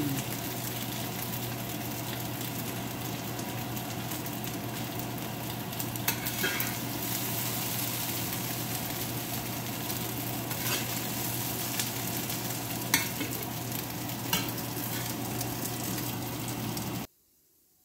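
Food sizzling in a frying pan, a steady hiss over a low hum, with a few light clicks. It cuts off suddenly near the end.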